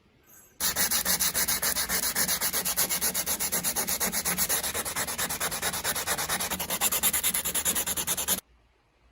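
Sanding on a rusty steel wrench: fast, even rubbing strokes that start abruptly and cut off suddenly near the end.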